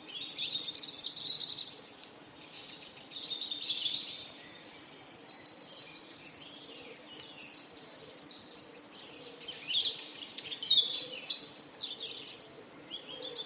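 Small songbirds singing, many quick chirping and trilling phrases overlapping in bursts, over faint outdoor background noise.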